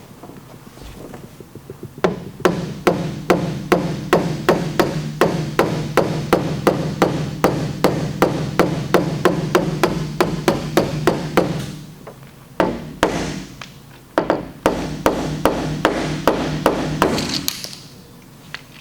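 Body hammer tapping down the high crowns around a dent in a car liftgate panel while the dent is held pulled out with a lever bar: a long run of quick, even taps, about three a second, with a short break partway through before the tapping resumes.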